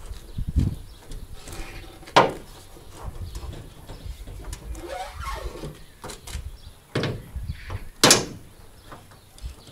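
VW Golf Mk2 bonnet being dropped shut, a few sharp bangs with handling noise between them, the loudest about two seconds in and just after eight seconds. The bonnet does not close properly.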